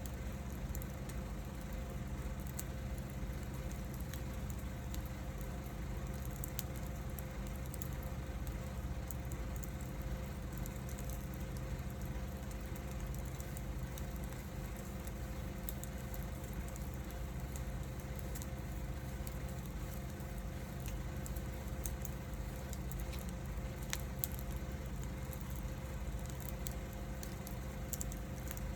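Wood fire burning in a fire pan, with scattered small crackles and pops over a steady low rumble.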